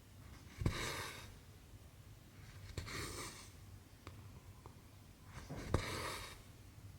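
Cotton embroidery thread pulled through cross-stitch fabric, three soft swishes a couple of seconds apart, the first and last starting with a sharp tick as the needle goes through.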